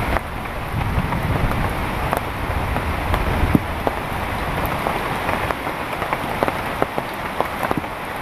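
Heavy rain falling steadily, with many separate drops tapping sharply close by. A low rumble under the rain fades away over the first few seconds.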